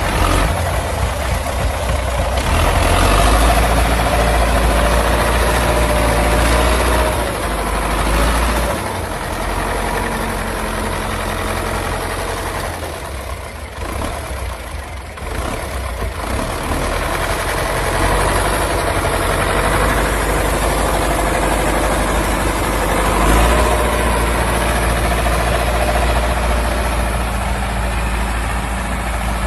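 Old tractor engine running, with a heavy low drone that rises and falls in loudness and eases off for a few seconds about halfway through.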